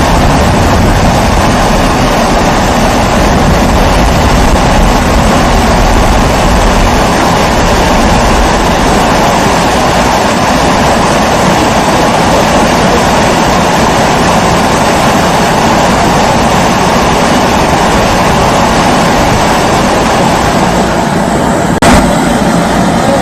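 Pressurised kerosene stove (babour) burner running with a steady hum. Near the end there is a single short knock.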